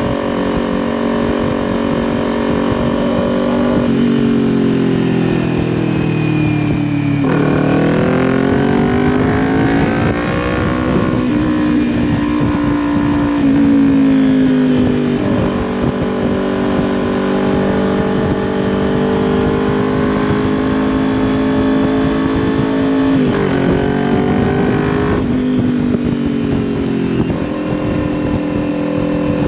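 Kawasaki Ninja 400 parallel-twin engine running through a Leo Vince LV10 aftermarket exhaust while riding, recorded raw. The engine note falls about a quarter of the way in, climbs again, and steps up and down several more times with throttle and gear changes.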